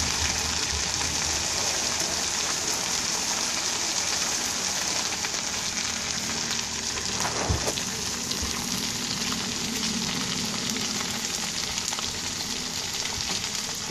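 Squid frying in hot oil in a pan, a steady sizzling hiss.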